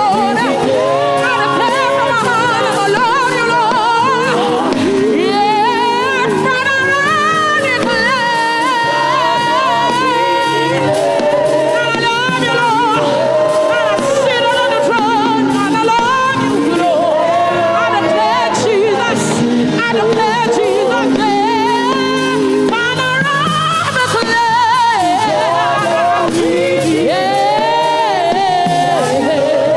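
Gospel praise singing: a voice singing long, wavering lines over instrumental backing.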